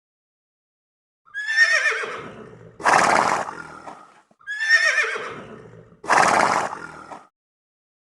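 Horse whinnying: a quavering, falling call followed by a breathy rush of noise, heard twice in the same pattern.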